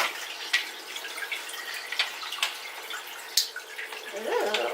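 Aquarium filter water trickling and dripping into the tank, with a faint steady hum and scattered small ticks. A sharp click at the start.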